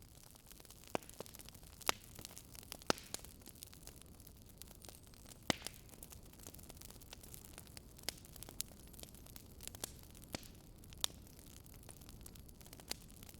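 Wood fire crackling: irregular sharp pops over a steady low hiss.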